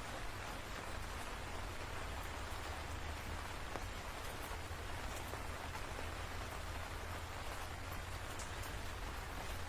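Steady rain falling, a dense even hiss with scattered sharp drop ticks over a low constant rumble.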